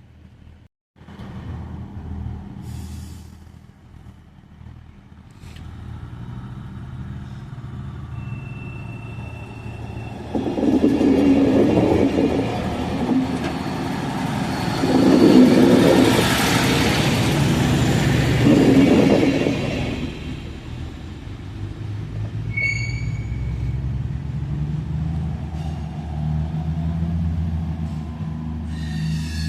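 Diesel local train running past on the line, its rumble building and then loudest for about ten seconds mid-way, with three heavy swells as it goes by. A brief high tone sounds about twenty-two seconds in, and the train then runs on as a steady low hum.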